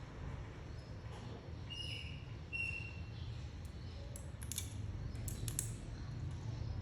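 Parrot cracking and nibbling seeds with its beak: a run of small sharp clicks and crunches, thickest about four to six seconds in. Two short high chirps come around two seconds in, over a steady low hum.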